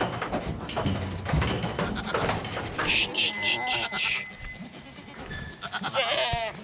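Boer goats bleating, with a wavering bleat near the end and scattered clicks and knocks in the first couple of seconds.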